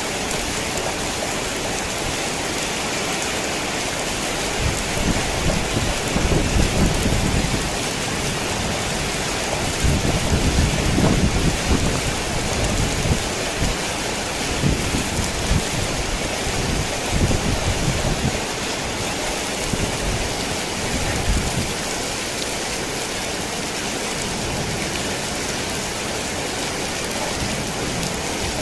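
Heavy rain falling on a worn tin roof, a steady hiss throughout. Low rolls of thunder rumble from about five seconds in until past the two-thirds mark, loudest near the start of that stretch and again a little before the middle.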